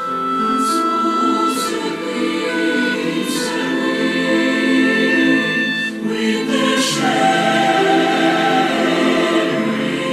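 Mixed SATB choir singing slow, sustained chords, with a few crisp sibilant 's' consonants standing out along the way.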